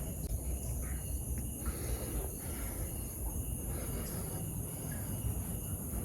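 Steady, high-pitched chorus of crickets and other insects, with a low rumble underneath.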